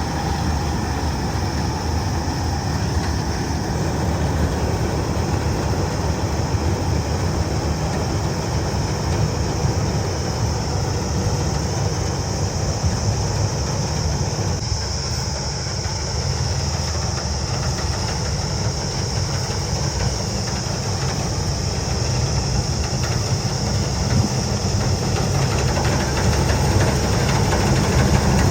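Kubota combine harvester's diesel engine running steadily while harvesting. A steady high whine lies over the low engine drone.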